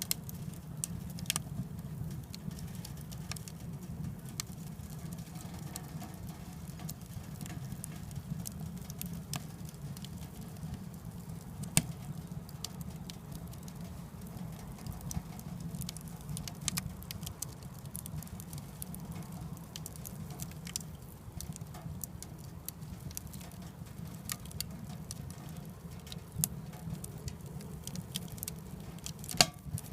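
Firewood burning inside a small wood stove: scattered sharp crackles and pops over a steady low rumble, with a louder pop about twelve seconds in and a few more near the end.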